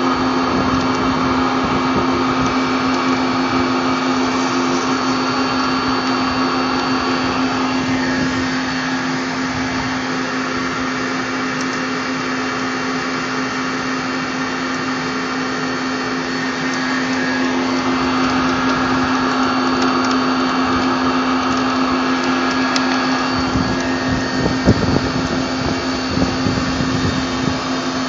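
PUMA 350 CNC lathe running with a steady hum and whine. It eases off slightly about 8 seconds in and picks up again about 17 seconds in, with a few knocks near the end.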